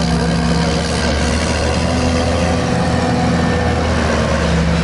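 Heavy farm machinery running steadily during maize chopping, its large diesel engines making a constant hum.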